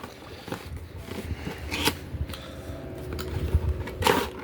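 Cardboard toy box and its packaging being opened and handled by hand: scattered rustles, scrapes and clicks, with a louder scrape about two seconds in and another near the end.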